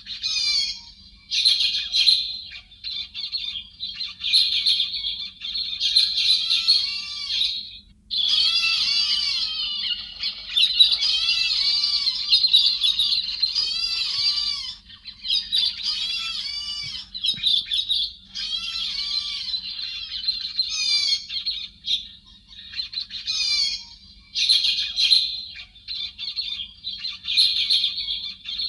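Calls of the héc xoan bird (a thrush known in Vietnamese as chim hét), from a recording made to lure birds into traps. The bird gives long runs of quick, repeated arching whistles and chattering notes, broken by short pauses, over a faint steady hum.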